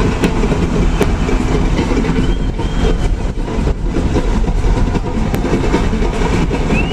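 Small Porsche driving under way, heard from inside the car: steady engine and road noise, with a few sharp clicks.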